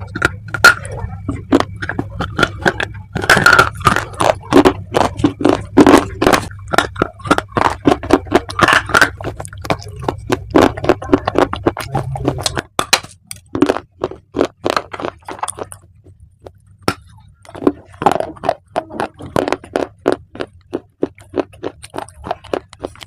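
Dry baked clay being bitten and chewed, giving a dense run of sharp, brittle crunches with a brief pause about two-thirds of the way through. A low hum sits underneath and drops away about halfway.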